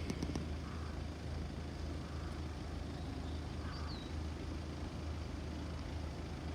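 Steady low rumble of a distant InterCity 225 train approaching on the main line, with a brief high chirp about four seconds in.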